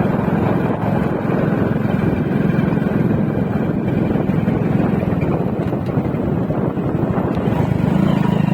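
Motorcycle engine running steadily under way, a constant low hum, with wind rushing over the microphone.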